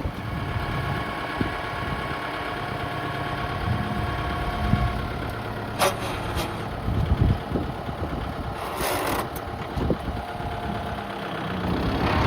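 Kubota tractor's diesel engine running steadily, with a few sharp knocks and a brief rattle about nine seconds in.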